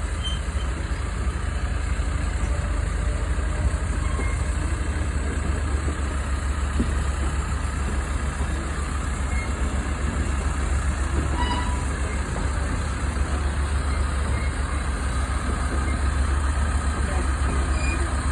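Steady low rumble of a small passenger train running, heard from aboard, with wind buffeting the microphone.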